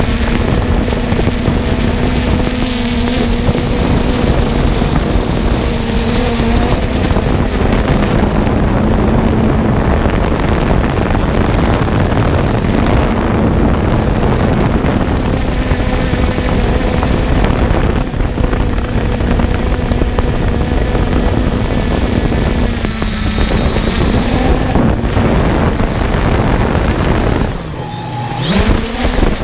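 A quadcopter drone's propellers hum steadily at one pitch, with heavy wind rush on the onboard microphone. Near the end the sound drops briefly and the pitch slides, as the motors change speed.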